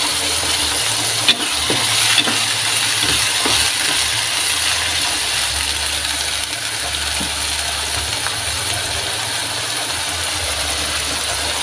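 Ground chili and shallot spice paste frying in hot oil in a wok, sizzling steadily as it is stirred with a metal spatula, with a few light clicks.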